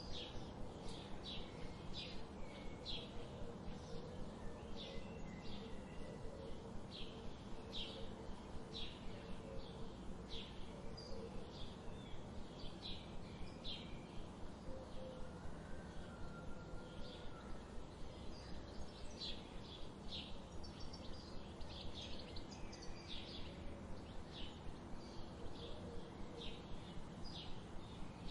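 Wild songbirds chipping: short, sharp high chips repeated over and over, about once or twice a second, with an occasional brief whistled note, over a steady low background hum of outdoor ambience.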